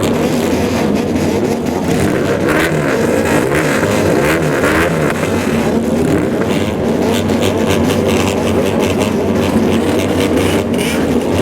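Loud exhausts of several modified motorcycles running together, their engines revving up and down.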